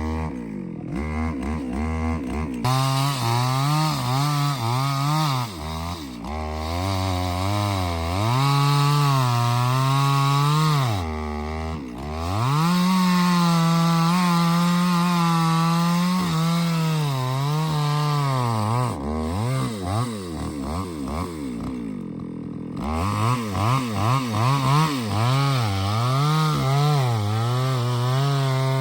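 Chainsaw cutting a large earleaf acacia (tràm bông vàng) tree. The engine revs up and down as the chain bites and eases off. About two-thirds of the way through it drops to a lower, steadier speed for a few seconds, then revs hard again in quick surges.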